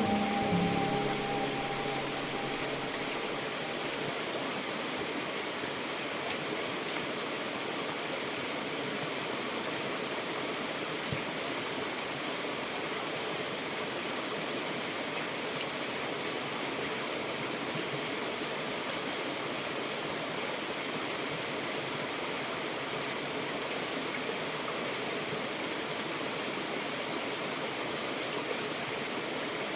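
Steady rushing water noise, unchanging throughout. A little music fades out in the first couple of seconds.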